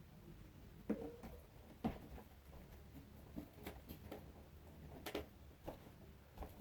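Faint scattered knocks, clicks and rustles of someone moving about a small room and handling things, over a low steady hum; the sharpest knocks come about a second in, two seconds in, and around five seconds in.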